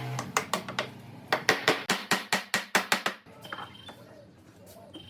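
Hammer blows on wood in a quick, even series of about five strikes a second, stopping about three seconds in.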